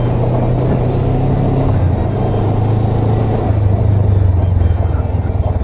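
Suzuki GSX250R's 248 cc parallel-twin engine running steadily while the motorcycle rides slowly along an unpaved dirt track, with a little change in the engine note midway.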